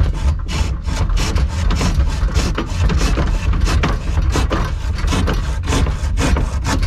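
Handsaw cutting through a wooden board with fast back-and-forth strokes, about three a second.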